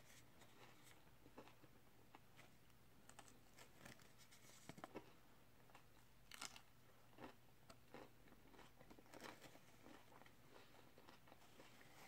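Faint chewing and mouth smacks of a person eating a burger and fries, with scattered short soft crunches and clicks over a low steady hum.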